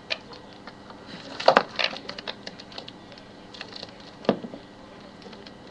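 Irregular light taps and clicks on a hard surface, with two louder bursts of scuffling knocks, one about a second and a half in and one past four seconds.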